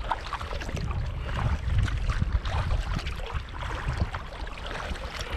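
Kayak paddle strokes on open water: irregular splashing and dripping as the blades dip in and lift out, over a steady low rumble.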